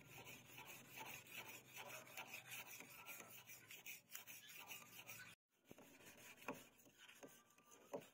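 Hand file rasping on a steel knife blade in repeated short strokes, broken by a brief gap about five seconds in.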